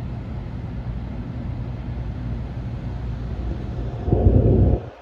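Steady low rumble of a Shinkansen train car heard from inside the cabin. Near the end a louder rush of noise builds up and then cuts off suddenly.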